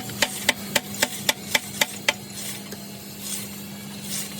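Quick, evenly spaced taps, about four a second, stopping about two seconds in, followed by softer scraping sounds, over a steady low hum.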